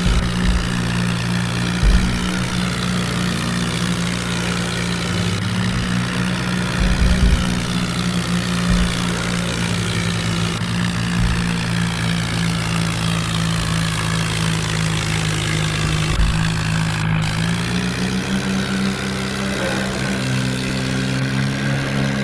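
Swaraj tractor's diesel engine running steadily while driving, picking up a little speed near the end, with a few low thumps.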